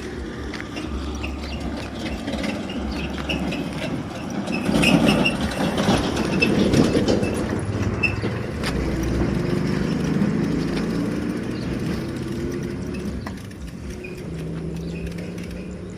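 A motor vehicle passing, its sound swelling about five seconds in and then fading with a changing engine pitch, over wind rumble on the microphone and a few bird chirps.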